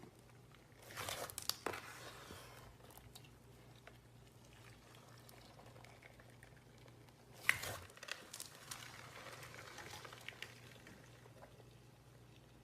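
Slime being squeezed and worked by hand, crackling and popping, with two louder bursts of crackling about a second in and again past the middle.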